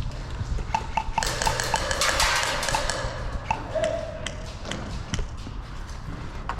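Scattered sharp clicks and taps of airsoft shots and BB impacts. About a second in there is a quick run of ticks, with a rush of hiss lasting a couple of seconds.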